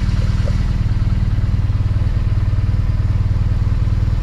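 BMW R1200GS boxer-twin engine idling steadily with an even low, pulsing rumble.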